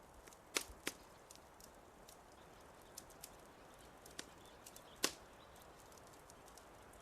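Fireplace fire crackling: irregular sharp snaps and pops over a faint steady hiss, with the loudest pops a little after half a second in, just under a second in, and about five seconds in.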